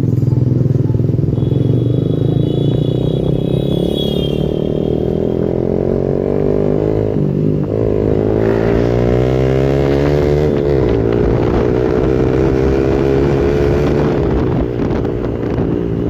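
Yamaha R15 V2's single-cylinder engine running through an aftermarket exhaust. The revs drop twice, about seven and ten seconds in, and climb again after each drop.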